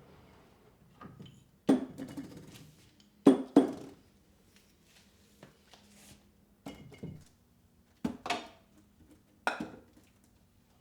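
Dishes and kitchenware being handled and set down: a string of separate clinks and knocks, the loudest a close pair a little over three seconds in.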